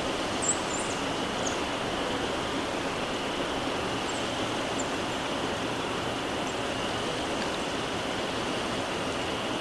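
Steady outdoor background hiss, even throughout, with a few faint high bird chirps in the first half.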